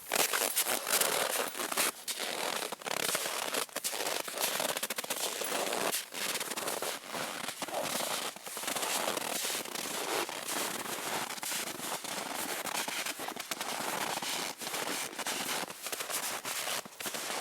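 Footsteps crunching and squeaking through deep, dry snow in a frost of nearly minus 30: a steady run of close crackling steps.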